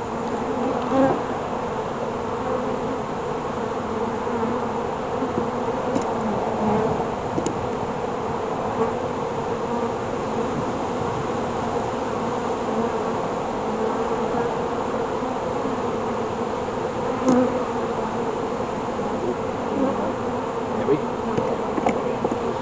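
Honeybees of an opened hive humming steadily, a dense buzz of many bees, with a few faint clicks.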